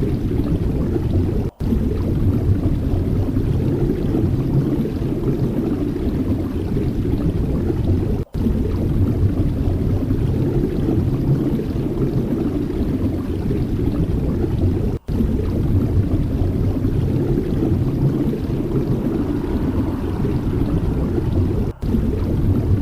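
Steady low rumbling noise, broken by four brief dropouts at even intervals of about seven seconds.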